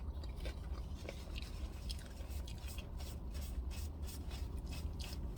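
Soft, irregular rubbing and scraping strokes close to the microphone, most likely a napkin wiping sauce off a sleeve.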